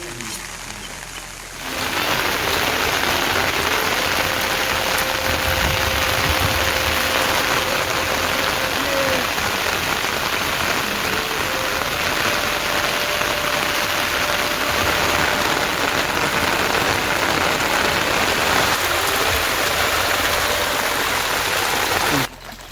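Heavy rain falling steadily, a dense even hiss of rain on surfaces, which sets in about two seconds in and cuts off suddenly near the end. Faint music runs underneath.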